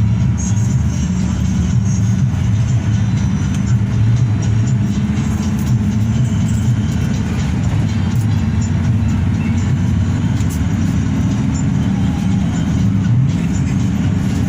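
Hino RK8 coach's diesel engine and road noise, a steady low drone while the bus cruises.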